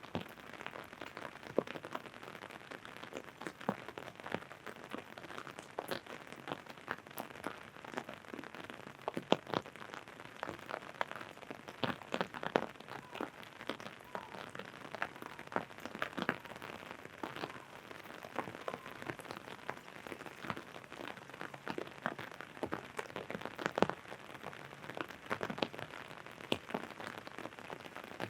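Rain drumming on an umbrella overhead: many irregular drops tapping on the canopy over a steady hiss of falling rain.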